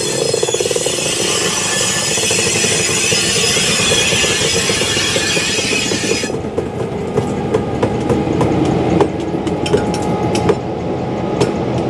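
Steam train on the rails: a loud hiss for about the first half cuts off suddenly, then wheels rumble and clack over the rail joints, with scattered sharp clicks.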